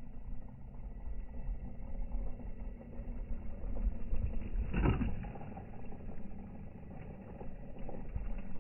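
Small electric RC truck running over rough ground, a muffled steady motor and drivetrain rumble, with one brief louder surge about halfway through.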